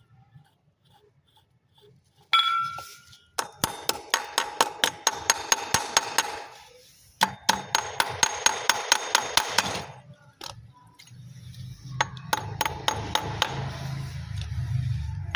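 Hammer tapping on metal: a single ringing strike, then three runs of quick taps at about five a second, each tap ringing. A low hum comes in over the last few seconds.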